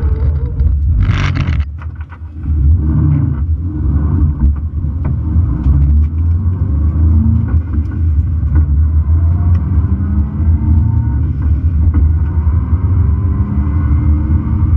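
Track car's engine heard from inside the cabin while driving at speed: a steady low drone that dips briefly about two seconds in, then pulls again with its pitch climbing in several rises. A short hiss comes about a second in.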